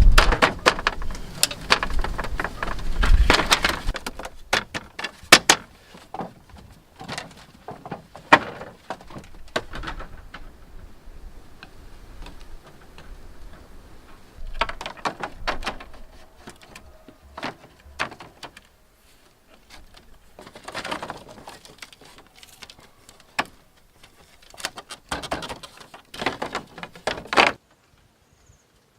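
Irregular knocks, taps and clatter of hand building work, busiest in the first few seconds, with further bursts around the middle and shortly before the end.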